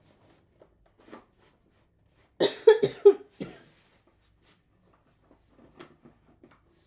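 A person coughing, a short run of three or four coughs about two and a half seconds in, followed by a few faint light clicks.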